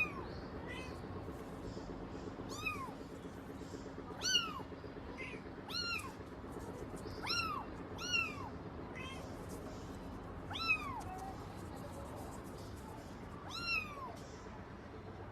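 Cats meowing: a series of short, arching calls every one to three seconds, with fainter, higher-pitched mews in between.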